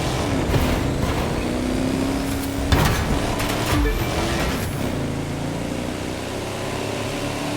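Road traffic: a motor vehicle's engine running steadily, with sharp knocks about three and four seconds in.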